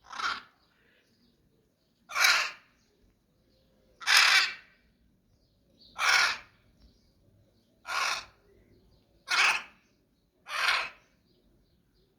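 A bird calling: seven harsh, rasping calls, each about half a second long, repeated every one and a half to two seconds.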